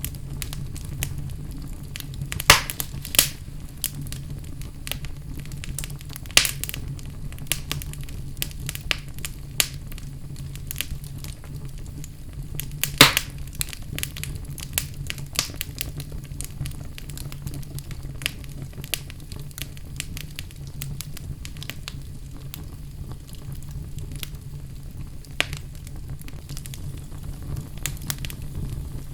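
Wood fire burning in a fireplace: a steady low rumble of flame with irregular crackles and sharp pops, the loudest about 2.5, 6.5 and 13 seconds in.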